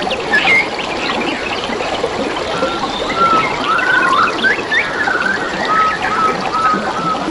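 Gently running water trickling steadily, with several birds calling over it: quick chirps and short whistles, and a run of brief, level whistled notes in the second half.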